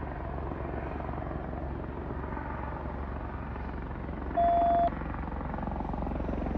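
Sheriff's helicopter flying overhead, a steady rotor chop. About four and a half seconds in, a short electronic beep of about half a second, the loudest sound.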